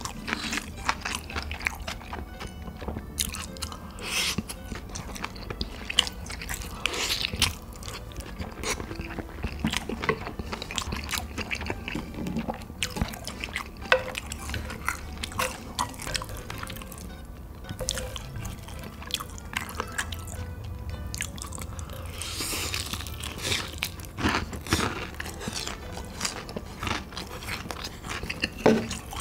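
A person eating close to the microphone: chewing, biting and crunching food in many short, irregular crackles and smacks, with quiet background music underneath.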